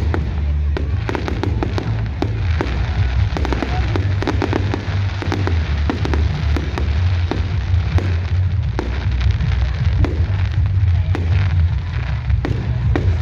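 Fireworks display: many bangs and crackles going off in quick succession, with music and a heavy low rumble underneath.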